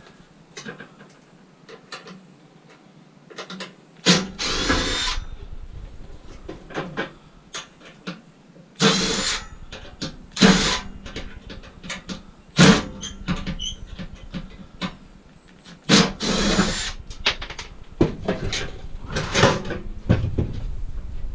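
Power drill run in about five short bursts of a second or so each, with a rising whine as each starts, used to take screws out of a scrap appliance; knocks and clinks of metal parts between the bursts.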